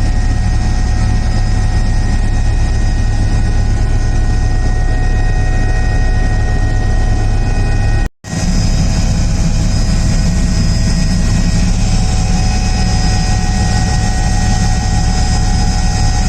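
Airbus H145 helicopter's turbine engines and rotors running as a steady, loud drone with a constant high whine over it. The sound cuts out briefly about halfway through.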